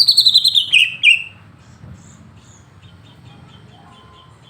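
Cucak ijo (green leafbird) singing: a loud, fast run of high notes sliding down in pitch for about a second, then softer, quick chirps.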